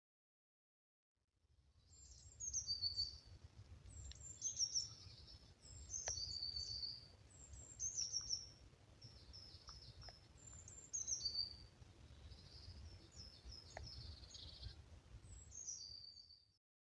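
A European robin singing: a string of thin, high twittering phrases made of quick falling notes, with short pauses between them. A low rumble runs underneath. The song starts about a second in and cuts off just before the end.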